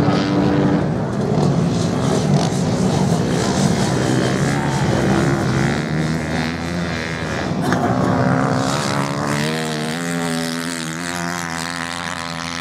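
Several racing motorcycle engines droning as the bikes lap a sand track, their pitch wavering as they pass and change speed.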